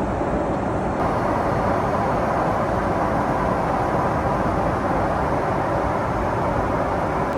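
Boeing 777-300ER cabin noise in flight: a steady rush of airflow and engine noise, with no distinct events. It becomes slightly fuller and brighter about a second in.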